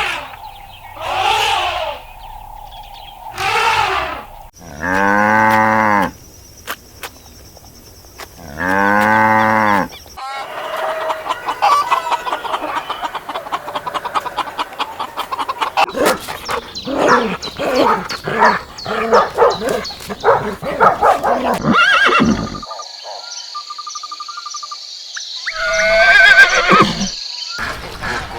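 A run of different animal calls, one after another, with two long, low calls a few seconds apart.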